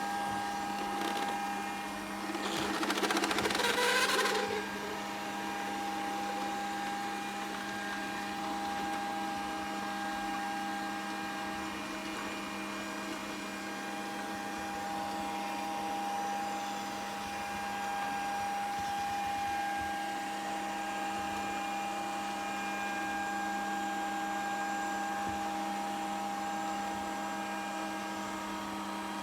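Grundig VCR 2131 robot vacuum running with a steady motor whine. A louder, noisier stretch comes about three seconds in.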